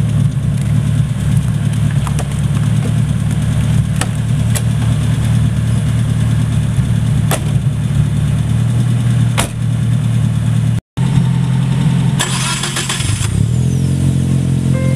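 Car engine of a Toyota KE70 Corolla running steadily, just started on a replacement battery because its alternator, the owner suspects, is not charging. The sound drops out briefly about eleven seconds in, followed by a short hiss.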